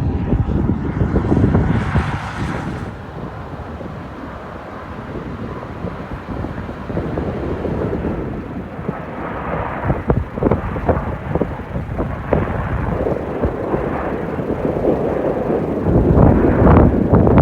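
Wind buffeting the microphone over the rumble of a jet airliner, with a brief hiss in the first few seconds and stronger gusts near the end.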